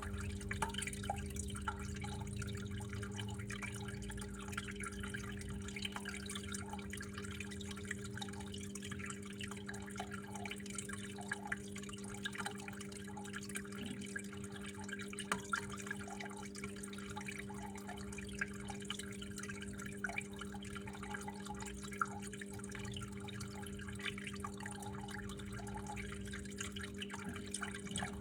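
Water trickling and dripping steadily, with irregular drops, over a steady low hum.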